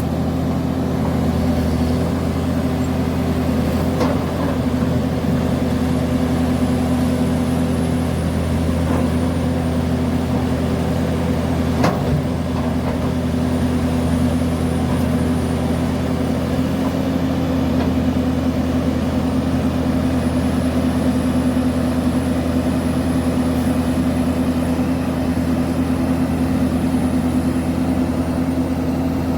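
Link-Belt excavator's diesel engine running at a steady speed, with a sharp knock about twelve seconds in and a faint high whine that comes and goes.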